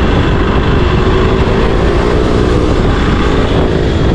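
Honda CRF Rally dual-sport motorcycle's single-cylinder engine running steadily under way, mixed with heavy wind noise on the microphone.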